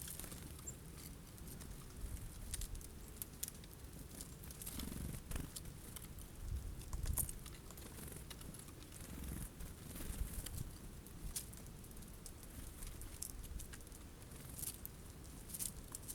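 Irregular light taps and clicks of jays pecking at sunflower seeds on a feeder, over a low rumble of wind.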